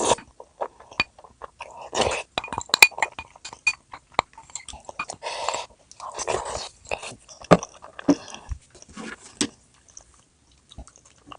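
Close-miked eating: a person biting and chewing food, with many short sharp clicks and a few clinks.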